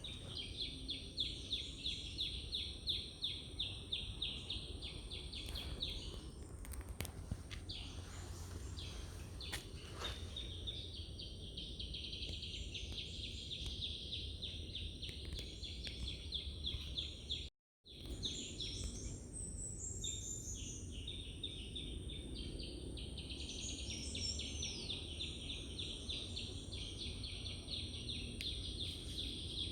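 Birds calling outdoors: long runs of rapid, chattering trills, with a few short falling calls later on, over a steady low background rumble. The sound drops out briefly just before the middle.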